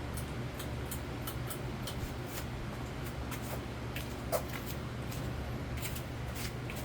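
Nadair C42 42-inch spinner ceiling fan running on medium speed: a steady low motor hum, with scattered light clicks over it.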